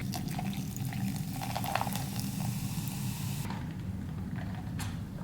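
A can of Zevia soda fizzing, a hiss that cuts off about three and a half seconds in, over a low steady hum.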